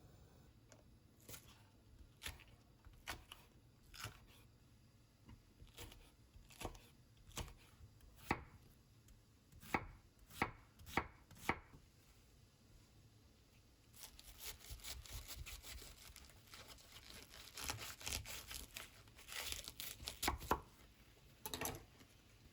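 A series of separate sharp knocks or taps, roughly one every half second to second, followed about fourteen seconds in by a denser stretch of rustling and crackling.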